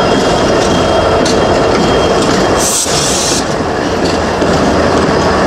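A CSX ES44AH diesel locomotive passes close by with its engine running, followed by loaded coal hoppers rolling past, their wheels clicking over the rail joints. A brief high hiss comes about halfway through.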